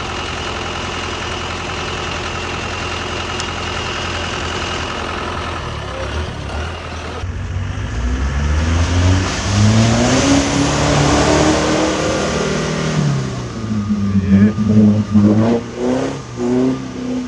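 Off-road 4x4 engine running steadily, then from about seven seconds in revving up and down several times, with short, quick revs near the end.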